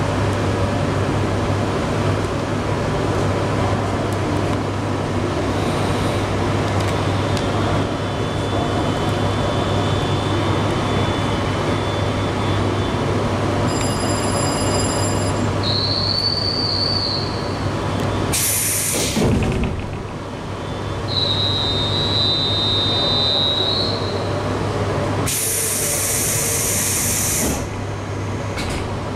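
Steady rumble and low hum of a train standing at a platform, heard from inside the carriage. Short high-pitched tones sound midway through, and compressed air hisses out twice: briefly about two-thirds of the way through, then for a couple of seconds near the end.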